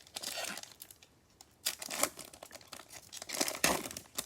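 Crinkling and tearing of a foil trading-card pack wrapper, in three bursts.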